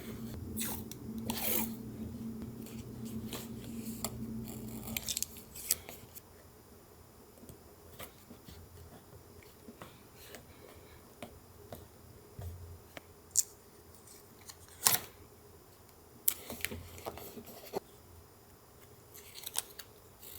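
Paper-collage crafting sounds: scattered sharp clicks, taps and light rustles of paper and small craft tools being handled. A low steady hum runs underneath and stops about five seconds in.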